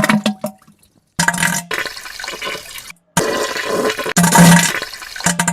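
Wet diarrhoea and fart sound effects: three separate spliced clips of watery splattering noise, some with a low buzzing fart tone, each starting and stopping abruptly.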